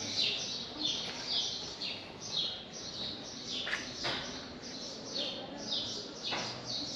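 Small birds chirping steadily: a run of short, high, falling chirps, about two a second, with a few faint taps underneath.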